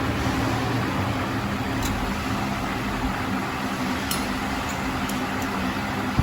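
A steady low mechanical hum over a noisy background, with a few faint light clicks.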